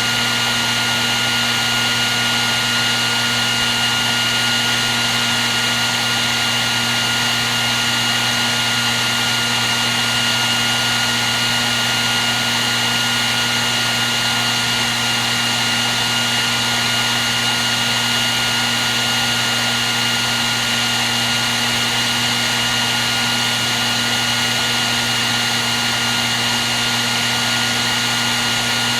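Hair dryer running continuously, a steady airflow rush with a constant motor whine and a few thin high tones.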